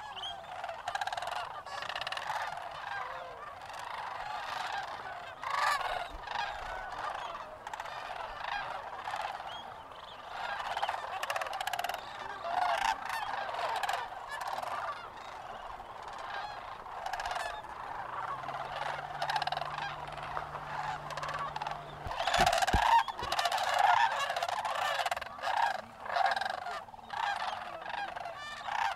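A large flock of sandhill cranes calling all at once, a dense, continuous chorus of overlapping rattling calls as the birds leave their roost. A faint low hum and a single sharp knock come about three quarters of the way through.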